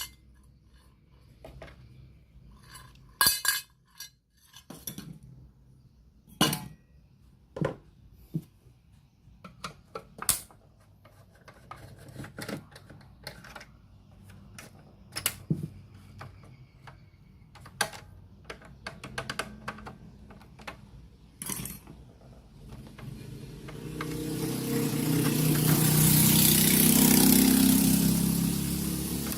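Scattered sharp clinks and taps of small metal tools and parts handled on a workbench. About twenty-three seconds in, a hiss swells for several seconds, becomes the loudest sound, and eases off near the end.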